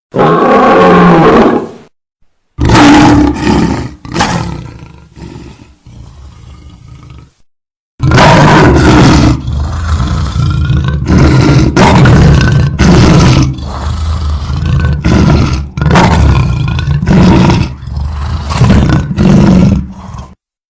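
Angry lion roaring and snarling in spliced clips. First comes a roar of about two seconds, then several shorter growls with gaps between them. After a cut to silence, about twelve seconds of continuous aggressive roaring and snarling follow, with repeated loud surges.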